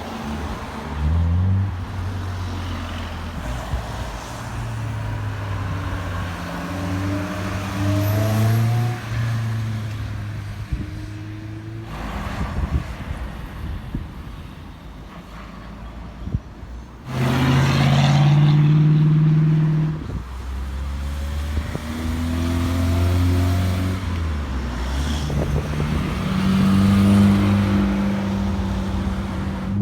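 Cars pulling away one after another, their engines accelerating hard through the gears: the engine pitch climbs, drops at each shift and climbs again. The loudest is a hard-revving pass about two-thirds of the way in.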